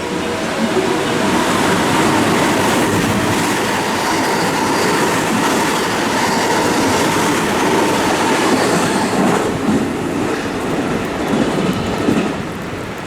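Electric passenger train running through the station at line speed without stopping, a steady loud rush of wheel and rail noise that eases a little near the end as the train clears the platform.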